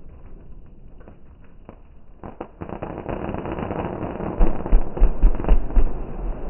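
Fireworks going off: scattered pops and crackles, then from about two seconds in a dense crackling barrage, with a run of heavy low booms in the second half.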